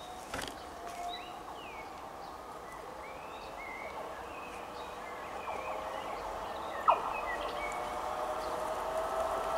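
Birds chirping, while a steady hum from an approaching train grows louder toward the end; a single sharp click about seven seconds in.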